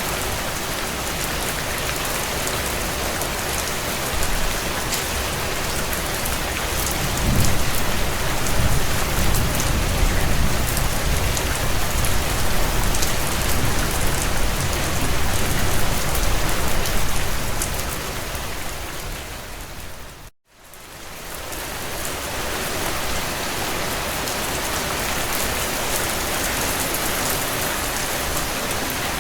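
Heavy rain drumming on a tin roof, a steady hiss and patter, with a low rumble underneath from about seven seconds in for some ten seconds. About two-thirds of the way through, the rain briefly fades out to silence and comes back.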